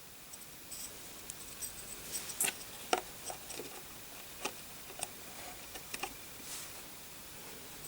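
Faint, irregular small clicks and taps of a processor and its pins being handled and worked into a damaged motherboard CPU socket. The loudest two come about two and a half and three seconds in.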